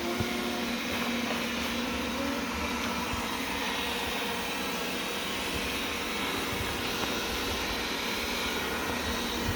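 Wyze robot vacuum running: a steady motor whir with a faint constant hum underneath.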